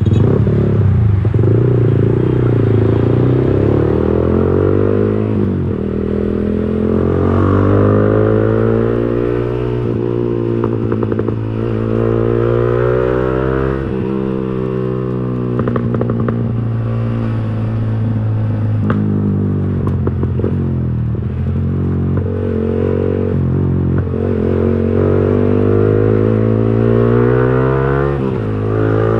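Yamaha R15 V3 single-cylinder engine breathing through an aftermarket racing exhaust, running continuously under way, its note rising and falling with the throttle.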